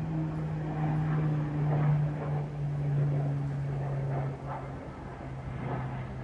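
Beechcraft Super King Air 350 twin turboprop flying past, its propellers giving a steady low drone. The drone is loudest a couple of seconds in, then its pitch drops as the aircraft passes and moves away.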